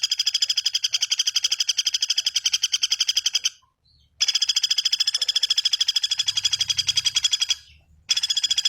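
A bird's trill of rapid, evenly repeated notes, about ten a second, in three long runs of about three seconds each, with short breaks around the middle and near the end.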